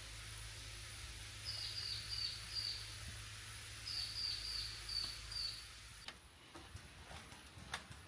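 Tropical rainforest ambience: a bird gives two runs of short, falling chirps, three then five, over a steady insect hiss and a thin high whine. About six seconds in the background hiss drops away, leaving a few faint clicks.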